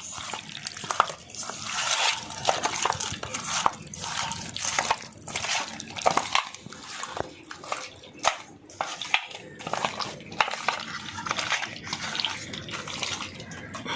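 Hands mixing raw chicken pieces with yogurt, mustard oil and spice powders in a bowl for marinating: irregular wet squelching and slapping.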